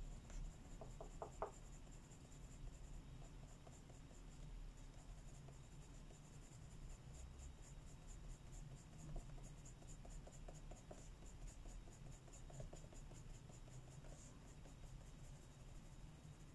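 Faint, quick back-and-forth colouring strokes scratching on paper, in a steady rapid rhythm.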